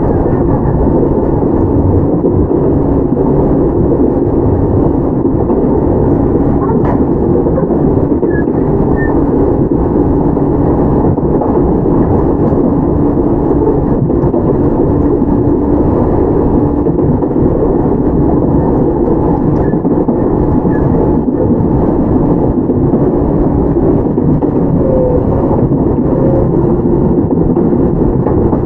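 Onboard running sound of a Toyama Chiho Railway 17480 series electric car (ex-Tokyu 8090 series): a steady, loud rumble of wheels on rail with a constant motor hum as the train runs at an even speed.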